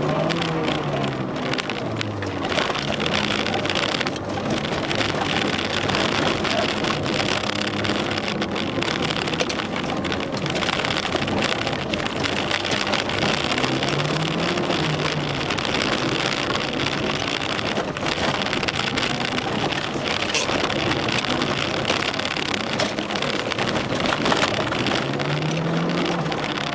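Car engine heard from inside the cabin, revving up and down as it is driven hard on loose dirt, over a steady rush of tyre, gravel and wind noise. The revs climb and fall near the start, about halfway through, and again near the end.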